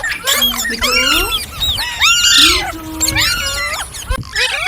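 Green parrot calling in a fast, loud run of harsh chirps and squawks that bend sharply up and down in pitch, one after another with hardly a break.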